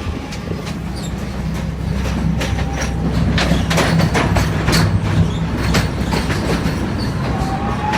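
EMD two-stroke diesel locomotive engine running under load, with a steady low drone that grows louder about two seconds in. The wheels click over rail joints throughout, and a faint wheel squeal comes near the end.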